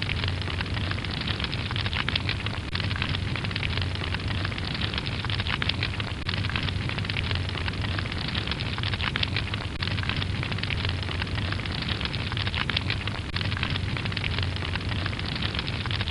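Continuous dense crackling and rattling over a steady low hum.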